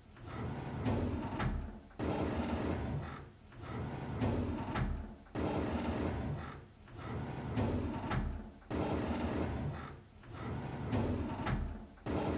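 A drawer sliding open over and over, about once every three and a half seconds: each pull starts suddenly with a rumbling slide and fades out.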